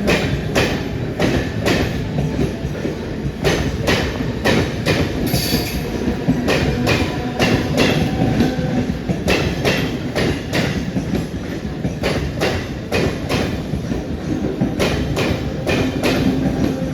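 Mumbai suburban local electric train running past, its wheels clattering over rail joints with sharp, uneven clicks two or three a second over a steady rumble.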